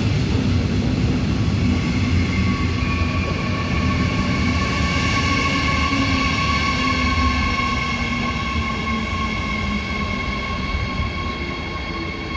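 Electric-hauled double-deck regional train moving past close by: a steady rumble of wheels on the rails, joined about two seconds in by a steady high whine, slowly fading as it goes.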